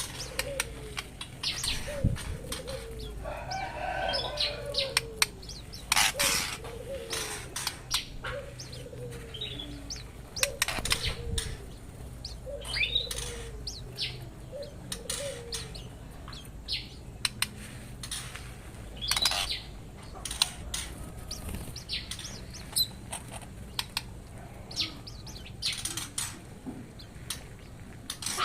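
Aviary songbirds chirping and fluttering their wings, with sharp short calls throughout. Over roughly the first half a run of short low falling notes repeats about once or twice a second, and a brief harsher call comes about four seconds in.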